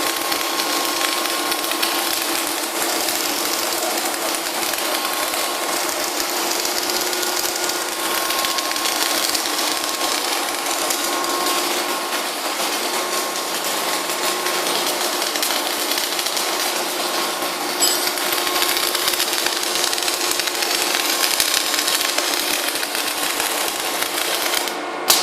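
CO2 (MIG) welding arc crackling steadily as an automatic welder lays a circumferential seam around a tank turning on rollers. The arc cuts off near the end, as the one-turn weld finishes.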